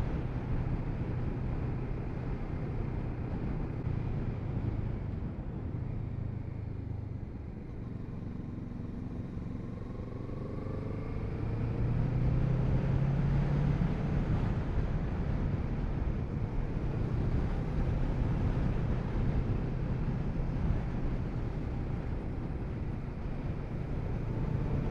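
Kawasaki Z650RS parallel-twin engine running under way, with road and wind noise. The engine note rises about halfway through as the bike speeds up.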